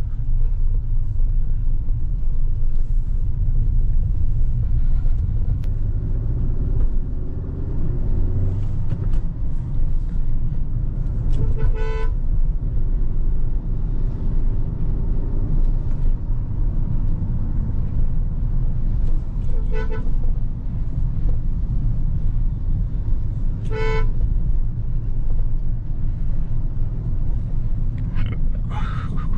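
Steady low rumble of a Hyundai Creta on the move, engine and road noise, with three short car-horn toots: one about halfway through and two more a few seconds apart later on.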